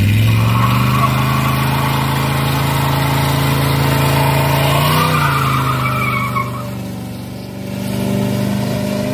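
A car engine held at steady high revs, with a rushing noise over it, then blipped about five seconds in. After the blip it settles lower, sags and picks up again near the end.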